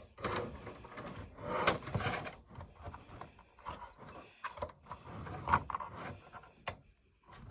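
A plastic travel box fan being handled and turned over by hand, with irregular rubbing and scraping and a few sharp knocks and clicks. The fan itself is not running.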